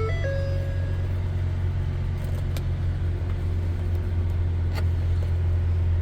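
Ford F-550 truck engine idling steadily, a low even rumble, with a few light clicks. A short run of held tones ends about a second in.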